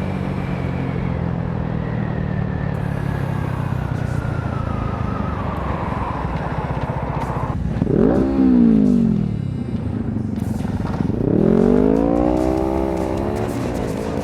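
Motorcycle engine running on the move with a slowly falling whine, then revved up and back down twice, about eight and about eleven seconds in.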